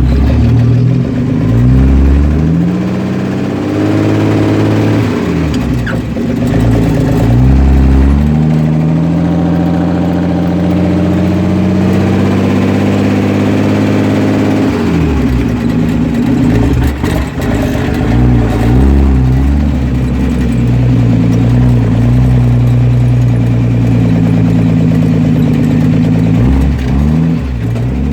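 Truck engine running and accelerating, its pitch rising and falling several times as it revs up and shifts through the gears.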